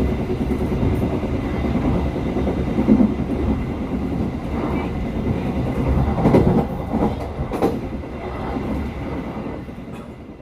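Passenger train running on the rails, a steady low rumble with a few sharp clacks of the wheels over rail joints about six to eight seconds in, fading out near the end.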